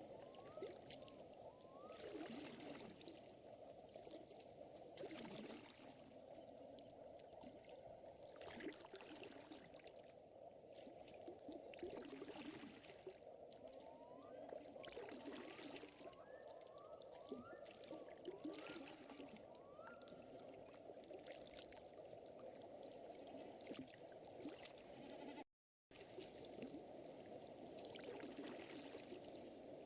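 Quiet layered nature ambience of trickling, pouring lake water, with swells of breeze-like hiss every few seconds and many short rising chirps. The sound drops out completely for about half a second near the end.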